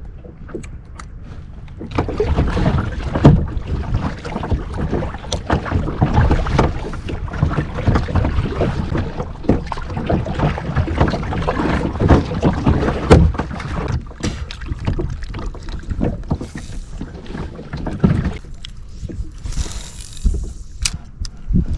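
Kayak paddle strokes splashing and dripping in lake water, with wind rumbling on the microphone; it grows louder about two seconds in.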